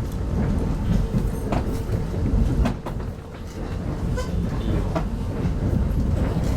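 Inside a 25T passenger coach of a moving train: a steady low rumble from the wheels and running gear, with scattered sharp clicks from the track.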